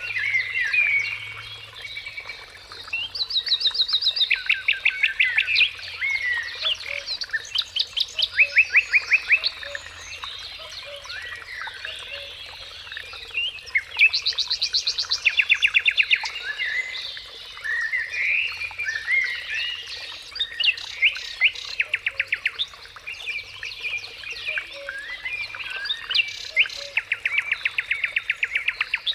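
Songbirds singing, several at once: fast trills of evenly repeated notes, each a second or two long and coming every few seconds, with shorter chirps and warbles in between.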